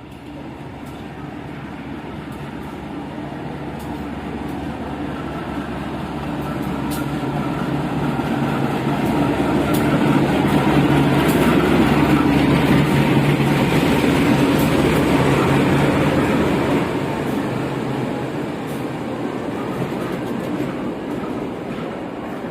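Diesel-hauled train passing close by: the locomotive's engine rumble builds, is loudest about halfway through, then fades as the train moves away, with faint wheel clicks on the rails.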